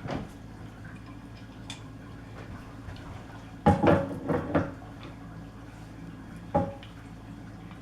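Heavy metal drill-press parts clanking and ringing as they are handled and fitted together: one knock at the start, a quick run of four or five loud clanks about halfway through, and another single clank near the end, over a steady low hum.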